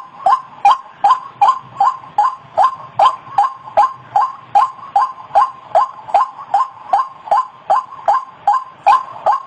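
White-breasted waterhen (ruak-ruak) calling: a fast, even series of short repeated notes, about two and a half a second.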